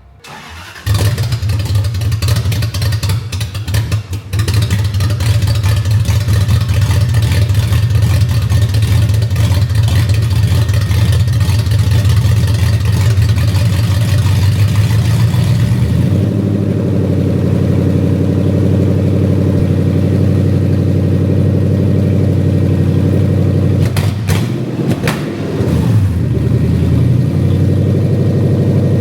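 Car engine starting and running hard with revving, then settling about halfway into a steadier, lower running note.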